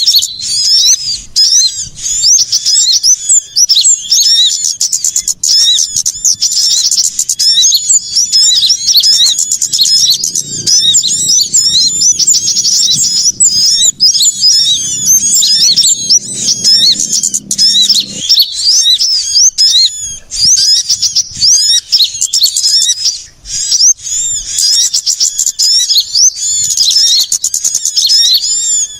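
A loud, dense chorus of small birds chirping and twittering, many quick high calls overlapping without a break. It is a recorded bird-trapping lure track of mixed small-bird calls.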